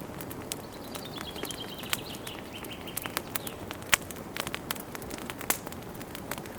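Wood fire burning in a fireplace: a steady low hiss with frequent sharp crackles and pops, one louder pop about four seconds in. From about one to three seconds a quick run of high chirps falls slightly in pitch.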